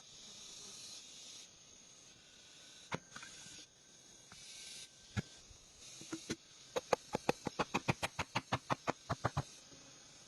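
A few single sharp knocks, then a rapid, even series of sharp taps, about six a second for nearly three seconds, over a steady hiss.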